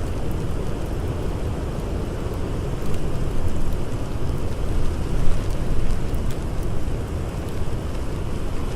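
Blizzard wind blowing in a steady low rumble that swells in gusts midway, with a campfire crackling faintly underneath.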